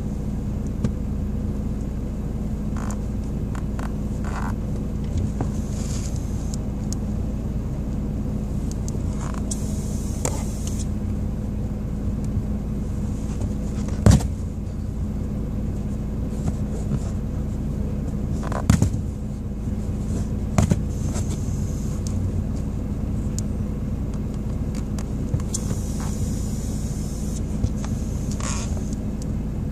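Car engine running steadily with a low hum, heard from down in the footwell. A few sharp knocks, the loudest about halfway through, as the shoe shifts on the pedal.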